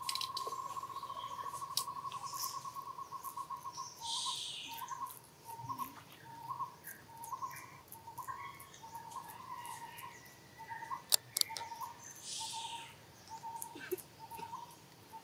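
A bird calling: a steady trilled note for about four seconds, then short notes at the same pitch repeated every half second or so. Scattered sharp clicks and two brief rustles sound over it.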